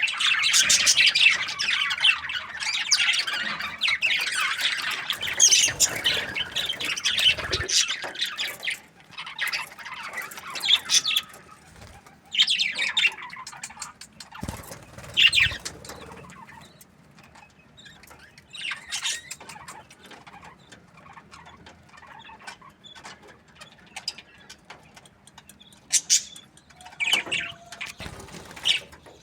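Budgerigars chirping and chattering, a dense continuous chatter for the first several seconds, then scattered short bursts of chirps with quieter gaps between.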